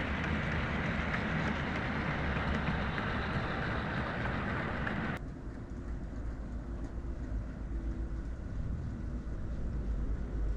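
OO gauge model train running on the layout track. The sound changes abruptly about halfway through, dropping to a lower, quieter rumble.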